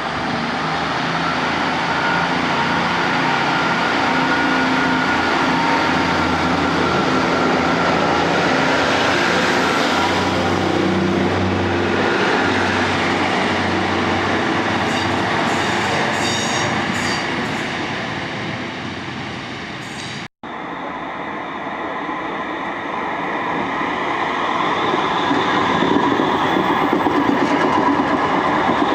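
A train running on rails, a steady rumble with some wheel noise, broken by a sudden split-second dropout about two-thirds of the way through.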